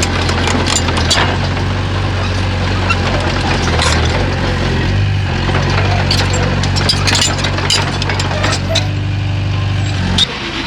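Komatsu bulldozer's diesel engine running steadily under load, with repeated sharp clanks and knocks from the tracks and rocks. The sound changes abruptly just before the end.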